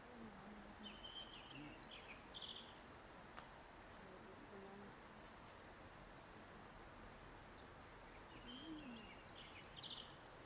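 Birds calling: a short chattering phrase about a second in, repeated near the end, with faint higher chirps between, over a low steady outdoor hiss.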